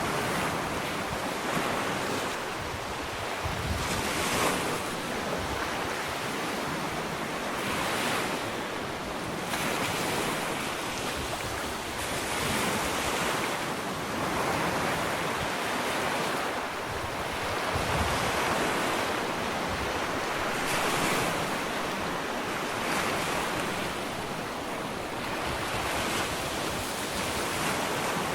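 Ocean waves breaking and washing up a sandy beach, a continuous surf noise that swells and ebbs every few seconds. Wind on the microphone.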